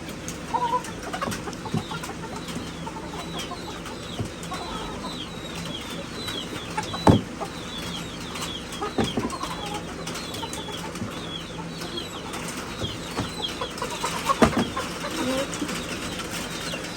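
Crowded chickens calling, with many quick, high, falling peeps and low clucks. A few sharp knocks and wing flaps come about seven, nine and fourteen seconds in.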